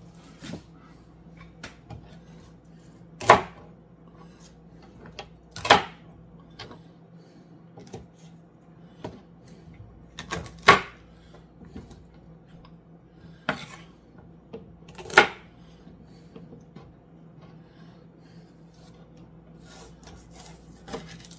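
Knife cutting celery on a cutting board: four sharp chops a few seconds apart, with lighter knocks and clicks between.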